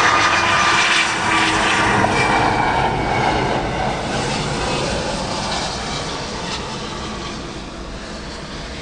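Jet engines of a departing heavy airliner, a loud noisy rush with faint whining tones that sink slightly in pitch, fading steadily as the plane moves away.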